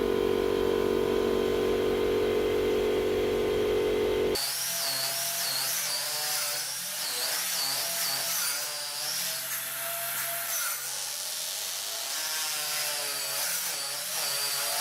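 Electric power tool working wood. A steady motor tone holds for about four seconds, then changes abruptly to a hissier cutting sound with a wavering high whine.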